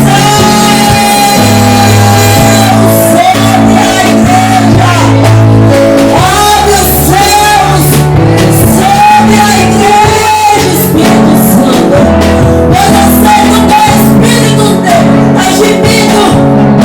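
Live church worship music: a singer's held, wavering melody over a band with sustained chords and bass.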